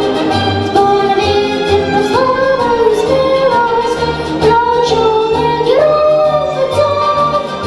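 Solo child's voice singing a melody with long held notes and sliding pitch over an accompaniment of strings and a steady bass.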